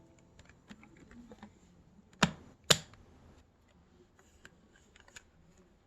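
Light clicks and handling noises, with two sharp knocks about half a second apart a little over two seconds in.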